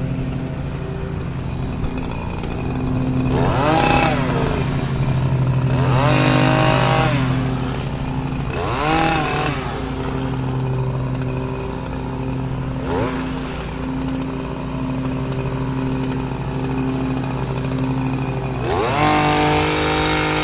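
Stihl KM94R hedge trimmer's small engine idling steadily, with the throttle squeezed up to full revs and released about five times as it trims.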